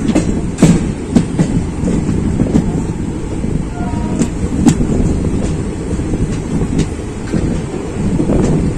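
Passenger train running at speed, a steady low rumble with irregular sharp clicks of the wheels passing over rail joints.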